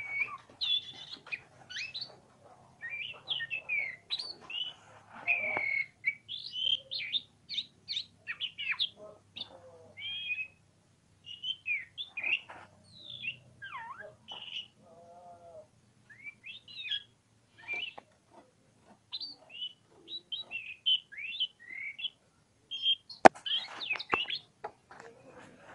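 Oriental magpie-robin (kacer) singing a varied run of short whistles and chirps, with one sharp click near the end.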